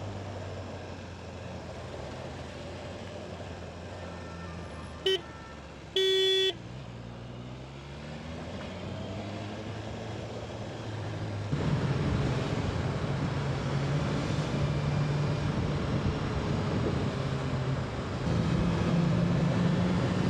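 BMW S1000RR inline-four engine running while riding in city traffic, getting louder and pulling harder from about halfway through, with rising engine pitch near the end. A vehicle horn beeps briefly about five seconds in, then sounds again for about half a second.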